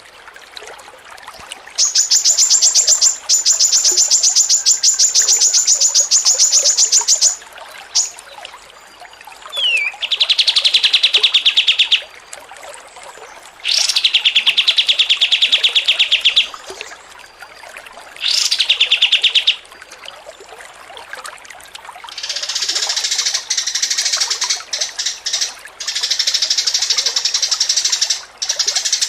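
A songbird singing long, fast trills of rapidly repeated notes, each run lasting one to several seconds with short pauses between, some high and some lower-pitched. From about 22 seconds in the song turns into a harsher, scratchier chatter.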